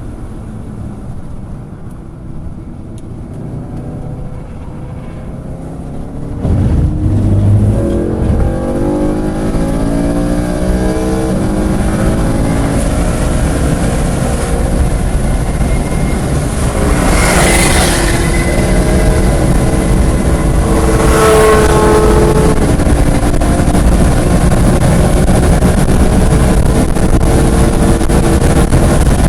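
Race-prepared car's engine heard from on board, running lightly for the first few seconds and then pulling hard from about six seconds in, with its pitch climbing as it accelerates. It stays at high revs to the end, with two brief rushes of noise in the second half.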